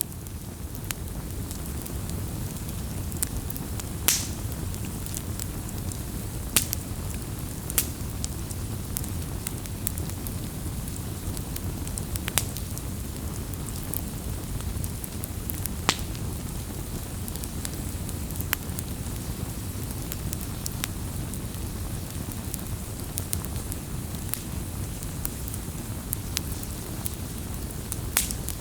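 Wood campfire burning, with a steady low rush of flame and occasional sharp crackling pops of the burning wood.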